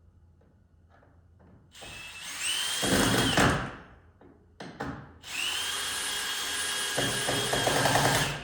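Power drill driving deck screws at an angle into a wooden top plate, in two runs: a shorter one about two seconds in and a longer one of about three seconds near the end. The motor whine rises in pitch as each run starts.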